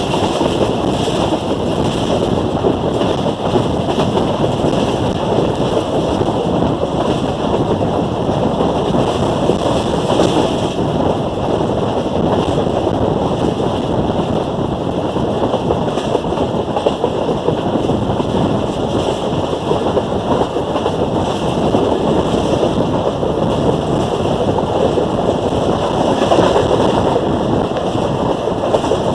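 A moving passenger train, heard as a steady rumble and rush of running noise, with wind buffeting the microphone.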